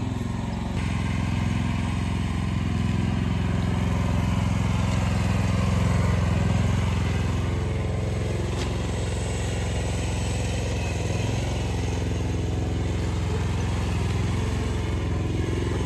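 Mini excavator's diesel engine running steadily while it works, growing slightly louder about six seconds in.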